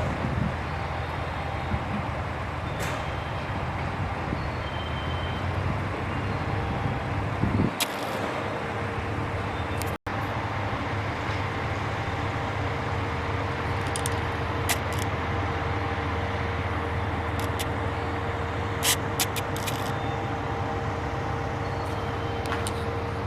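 Diesel railcars idling at a station platform, a steady low engine rumble with a few short clicks and knocks.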